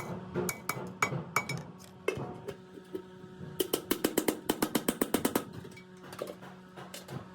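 Metal-on-metal tapping and clinking on sheet steel, with scattered strikes and a quick run of about seven a second in the middle, over a steady hum.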